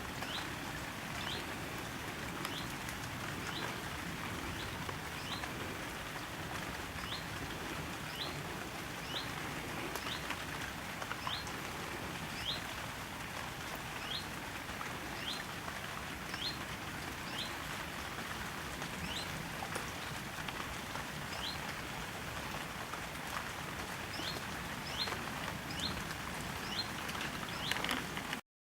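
Steady rain falling, with a bird's short rising chirp repeated about once a second.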